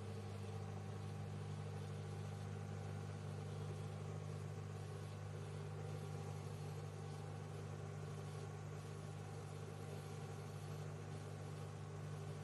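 Microwave oven running: a steady low hum with an even hiss above it.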